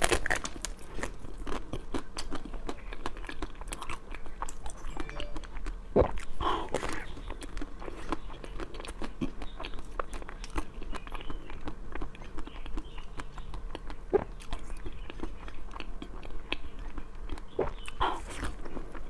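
Close-up chewing and wet mouth clicks of a person eating soft green filled buns topped with chopped nuts, with a few louder bites.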